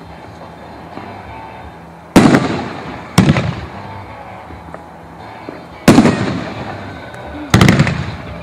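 Brothers Whacky Tobacky multi-shot tube rack firing: four loud booms at uneven spacing, about a second or two apart, each trailing off in a fading rumble as the shells break.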